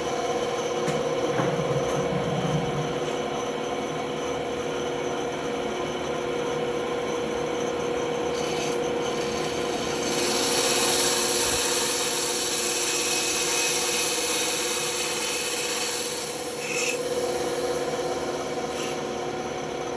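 Band saw running with a steady hum while its blade cuts through a workpiece; the cutting noise grows louder for a few seconds midway.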